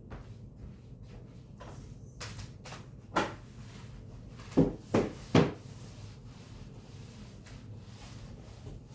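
Handling noise: faint scraping and light clicks, one sharp knock about three seconds in, then three quick louder knocks in a row a second and a half later, like wood or hard objects being knocked together.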